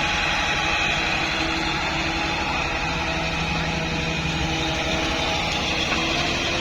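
Excavator engine running steadily, with several steady whining tones over the engine noise.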